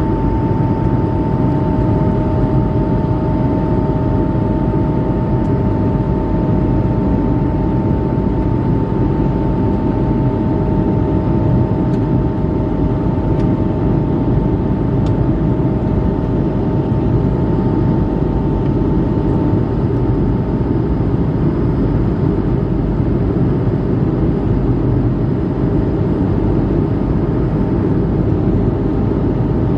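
Steady roar of an Airbus A220-300's Pratt & Whitney PW1500G geared turbofans and rushing air, heard inside the cabin, with two steady hum tones over it. The higher tone fades out about two-thirds of the way through.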